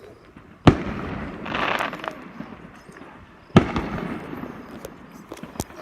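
Fireworks display: two aerial shells bursting with loud booms about three seconds apart, the first followed by a brief crackling hiss, and a few small pops near the end.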